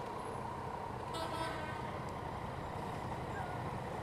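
A truck's horn gives one short beep about a second in, over the steady low running of the Yamaha Niken GT's three-cylinder engine and wind.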